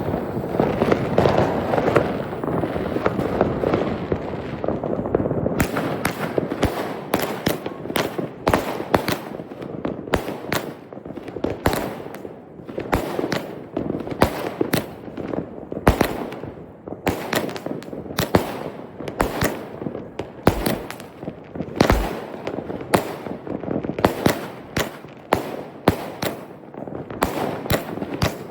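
Fireworks going off: a dense crackling rush for the first few seconds, then a long run of sharp bangs at irregular intervals, several a second.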